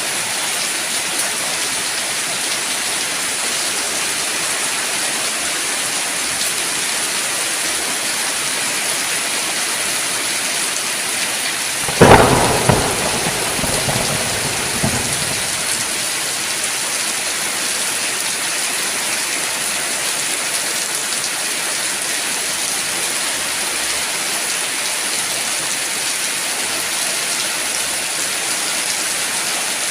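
Steady heavy rain falling, with a single sharp thunderclap about twelve seconds in that rolls on in rumbles for about three seconds.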